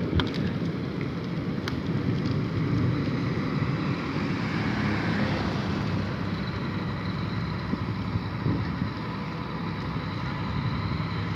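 Steady wind buffeting the microphone over the low, even rumble of a moving vehicle and traffic, with a few faint clicks near the start.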